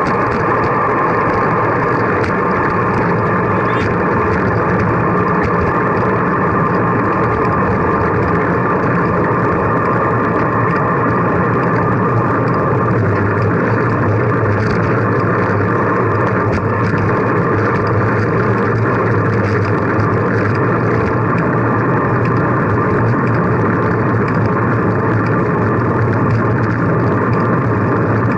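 Steady rushing wind and road noise on a camera microphone carried on a moving bicycle, unchanging throughout.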